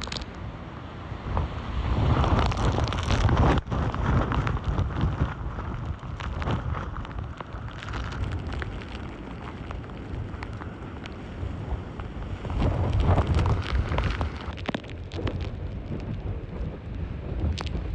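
Strong typhoon winds gusting with heavy rain, the wind buffeting the microphone. It swells louder about two seconds in and again around thirteen seconds.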